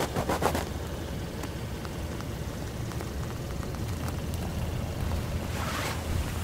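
Steady low hum of the Hyundai Sonata's 2.4-litre GDI inline-four idling, heard from beneath the car. Brief rustling comes right at the start and again near the end.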